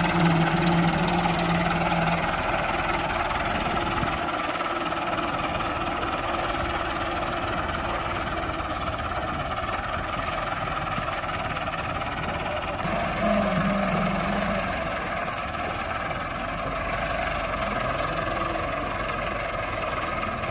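Diesel engine of heavy farm machinery running steadily, with its hum briefly rising about 13 seconds in.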